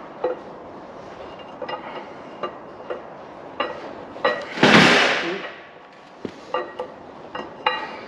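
Metal clinks and light taps that ring briefly, as a camshaft is worked out of a Karrier K6 engine block. About halfway through there is one louder rushing scrape lasting about a second.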